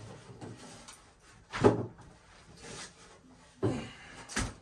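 Wooden knocks and bumps as a wood-framed window unit is carried and handled, the loudest knock a little under two seconds in and two more near the end, over faint rustling.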